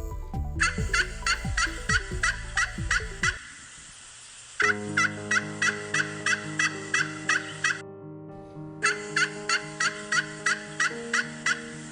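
Domestic turkey gobbling: three runs of rapid, rattling calls at about four a second, each run lasting a few seconds.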